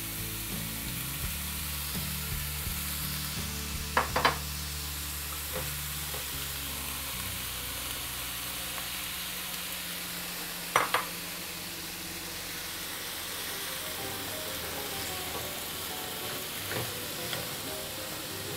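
Cubes of pork belly sizzling as they fry in oil in a nonstick frying pan, stirred with chopsticks and a spatula. A utensil knocks sharply against the pan twice, about four seconds in and again about eleven seconds in.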